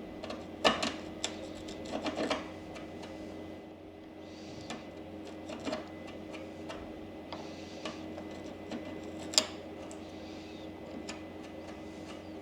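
Wood chisel working ebony on a snooker cue's front splice: scattered sharp clicks and taps as small pieces are cut and cracked away. There is a cluster of clicks in the first couple of seconds and a single sharp one near the end, over a steady low hum.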